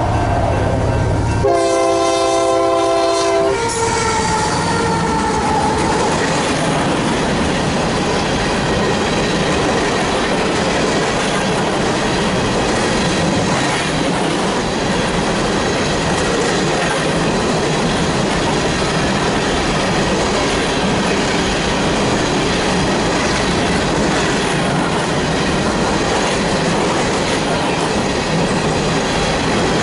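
Union Pacific freight locomotive's horn sounding one blast of about two seconds close by, with a falling tone just after as the locomotives go past. Then a long coal train of hopper cars rolls by, with the steady clatter of wheels on the rails.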